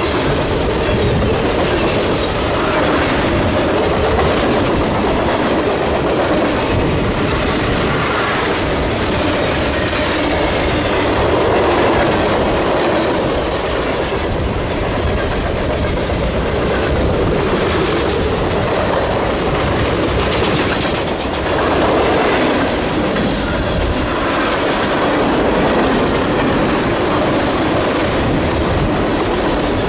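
Freight train cars rolling past at close range, with a steady, loud clatter of steel wheels on the rails.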